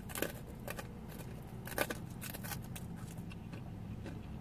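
Crunching and chewing as a person gnaws the batter off the end of a corn dog stick: a few short crisp crunches in the first two and a half seconds, the sharpest a little under two seconds in.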